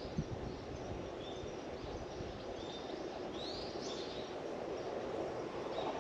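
Outdoor ambience of small birds chirping a few short, high calls, some of them quick upward sweeps, over a steady low background rumble.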